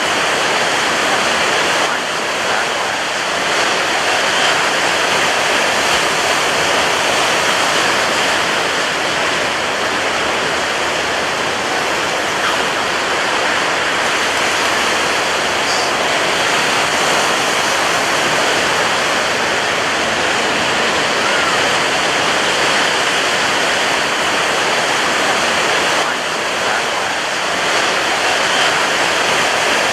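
Ocean surf breaking on a beach: a continuous dense rush of waves, easing off briefly about two seconds in and again near the end.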